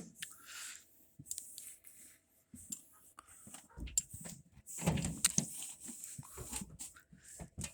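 Scattered light knocks, clicks and rubbing as a microwave's inside is handled and wiped out, with a couple of louder knocks about four and five seconds in.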